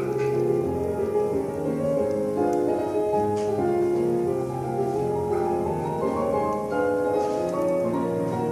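Piano music with sustained notes.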